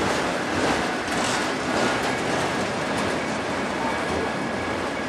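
Loaded autorack freight cars rolling past, a steady noise of steel wheels running on the rails with a few faint clicks.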